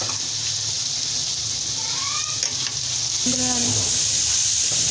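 Potato fries sizzling steadily in hot oil in a kadai, stirred with a slotted spoon, partway through frying as they begin to turn light brown.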